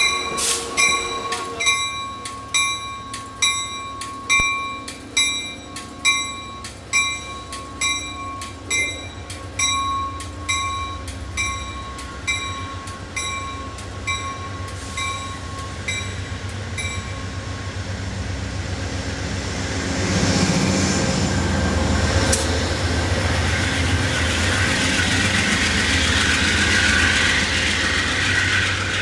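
A railway warning bell strikes evenly, about three times every two seconds, and fades out. Then a train rumbles past on the rails, growing louder and staying loud.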